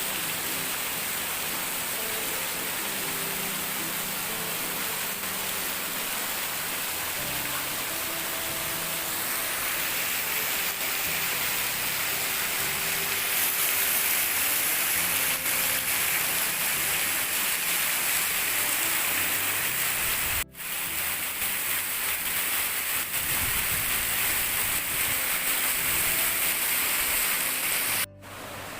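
Waterfall rushing: a steady, dense roar of falling water that grows a little louder about a third of the way through, broken by two brief sudden dropouts.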